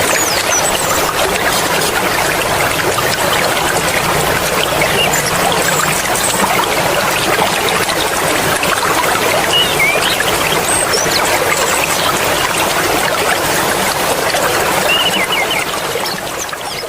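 Mountain stream water flowing and splashing steadily. It fades out near the end.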